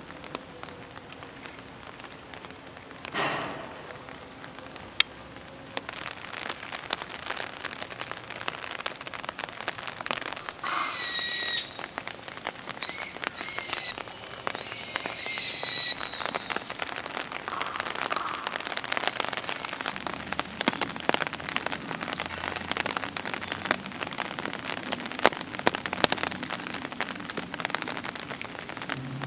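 Steady rain falling, with many individual drops ticking sharply on nearby surfaces. Several short high-pitched calls come through the rain between about ten and sixteen seconds in.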